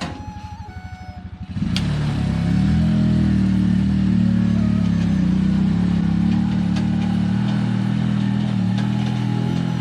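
A 250 cc motor tricycle's engine putters quietly for about a second and a half, then revs up and runs loud and steady, working hard under a heavy load of cement bricks as it climbs a slope.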